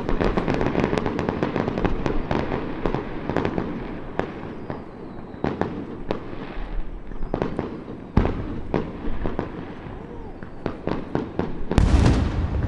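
Fireworks display bursting: a rapid rattle of crackling shell bursts, then scattered sharp bangs, and one heavy boom near the end, echoing off the mountain behind the viewpoint.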